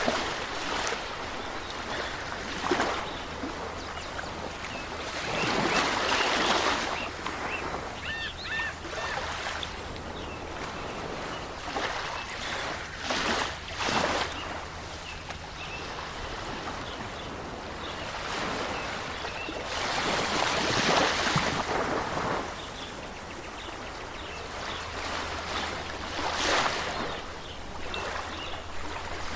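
Waves washing in on a shore, the surf swelling and falling back every few seconds, with a few faint high chirps about eight seconds in.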